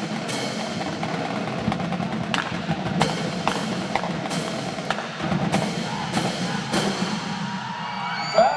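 A marching drum line with snare drums, tenors and bass drums plays a dense cadence of rolls, with sharp stick or rim clicks punctuating it about twice a second. A voice comes in just at the end.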